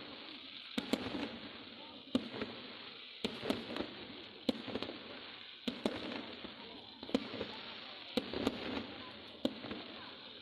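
Fireworks display: aerial shells bursting one after another, a sharp bang about every second, sometimes two close together, each followed by a trailing echo and crackle.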